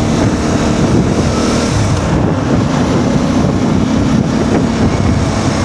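CFMoto 450MT's parallel-twin engine running at a steady pitch while the motorcycle is ridden through traffic, with wind buffeting the helmet microphone.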